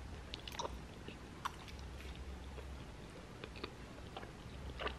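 A person chewing a mouthful of soft pasta with the mouth closed: faint wet chewing with scattered small clicks and smacks.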